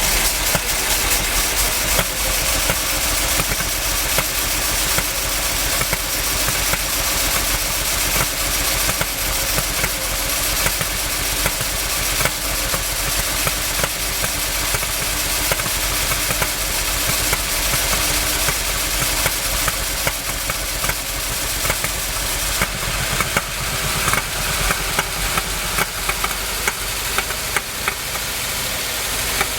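C50 truck's big-block V8 engine running unevenly, with irregular sharp pops through the run: backfiring, which the owner wonders may come from the ignition timing being a little off.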